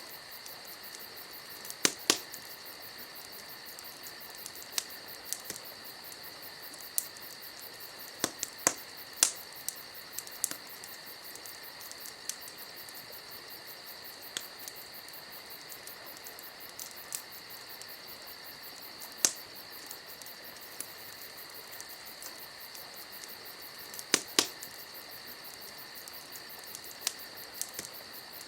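Campfire crackling, with scattered sharp pops, the loudest a few at about 2, 9, 19 and 24 seconds in, over a steady high chirring of insects such as crickets.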